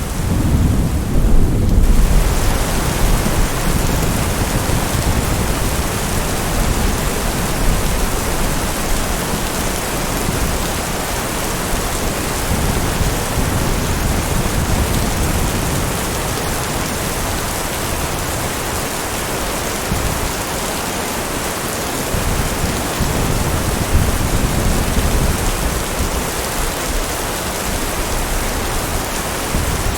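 Steady heavy rain with rolling thunder. A low rumble swells right at the start, is loudest a second or two in, and slowly dies away under the rain, with a smaller rumble later on.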